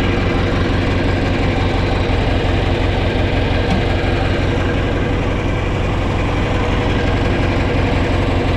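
Large diesel farm engine running steadily at a fast idle, with an even, rapid firing pulse.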